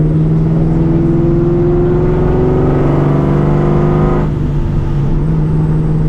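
Vortech-supercharged 4.6-litre 2V V8 of a New Edge Mustang GT, on long-tube headers, a catless X-pipe and a Borla ATAK catback, pulling under way with the engine note slowly rising. About four seconds in the note drops suddenly and then holds steady.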